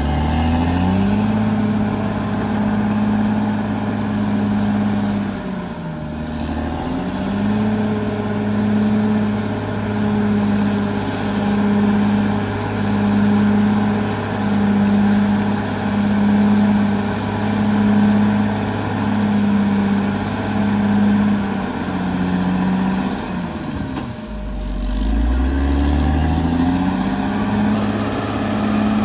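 Caterpillar D6R XL bulldozer's diesel engine running hard. Its pitch sags and recovers three times: at the start, about six seconds in, and about 24 seconds in. In between it holds steady with a regular pulsing about once a second.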